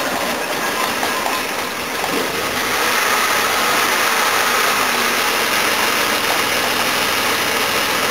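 Jaguar XJ6's 4.2-litre straight-six engine running just after starting, settling into a steady idle that picks up a little about three seconds in.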